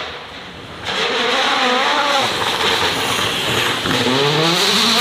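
High-performance car engine accelerating hard, loud from about a second in, its pitch rising and dropping with gear changes and then climbing again near the end.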